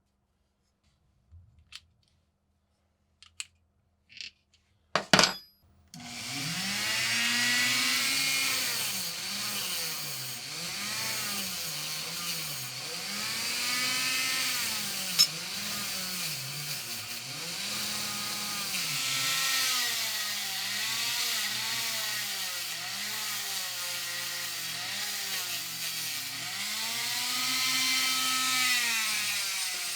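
A few light clicks and a knock of tools being handled, then an electric power tool starts about six seconds in and runs on, its motor pitch dipping and recovering again and again as it is pressed into the work and eased off, as in grinding or sanding off rust.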